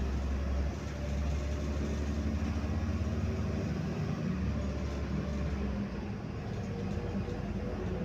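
Inside the cabin of a MAZ 105 city bus under way: a steady low engine and road rumble. The deep drone drops away about six seconds in.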